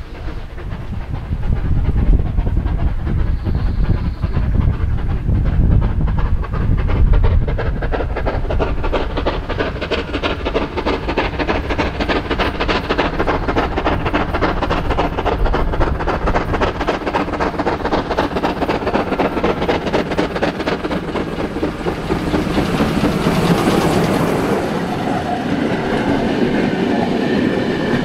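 A train rolling past, its wheels clattering steadily over the rail joints. A heavy low rumble in the first few seconds gives way to the coaches running by, and the clatter grows brighter and louder again a few seconds before the end.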